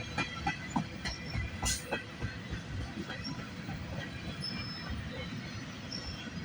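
Freight train cars rolling past, the wheels knocking over the rail joints in the first couple of seconds, then a steady rumble with a few brief, faint wheel squeals.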